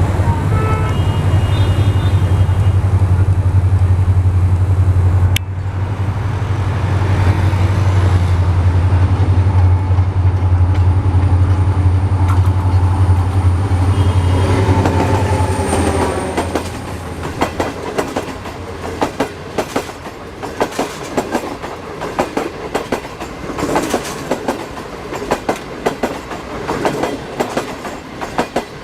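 German-built HGMU-30 diesel locomotive running past with a heavy, steady engine drone. Its coaches follow, their wheels clattering rhythmically over the rail joints.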